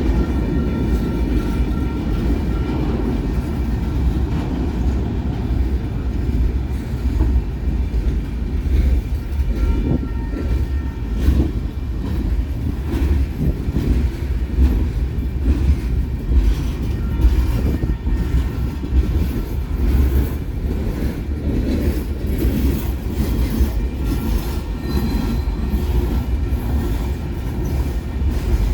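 Freight train rolling past, its railcars keeping up a steady heavy rumble with repeated clicks of wheels over rail joints.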